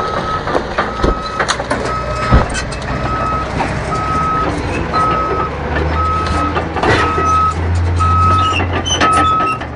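Heavy vehicle's reversing alarm beeping steadily, about one beep a second, over its running engine, which grows louder about six seconds in. A sharp knock about two seconds in.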